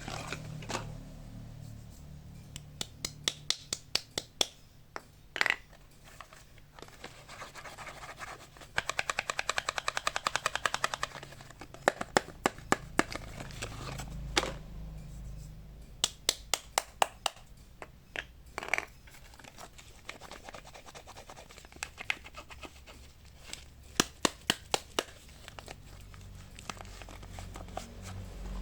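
Fingers tapping and scratching on soap bars and their packaging: scattered sharp taps, with a quick run of rapid tapping about nine seconds in that lasts about two seconds.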